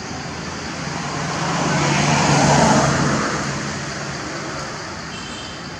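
A motor vehicle passing by: its engine and tyre noise grow louder to a peak about halfway through, then fade away.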